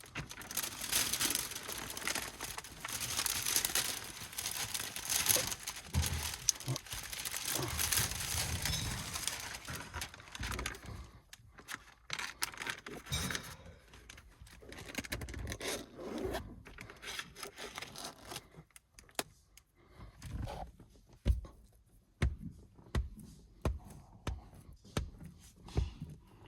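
Window tint film being handled and worked: about ten seconds of steady crinkling and scraping of plastic film, then scattered scrapes, taps and knocks.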